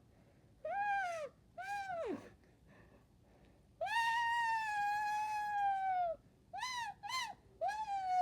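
Humming into a Nerds candy box, which turns the hum into a buzzy, kazoo-like tone. Two short rising-and-falling notes, a long held note after a pause, two quick short notes, then another held note near the end.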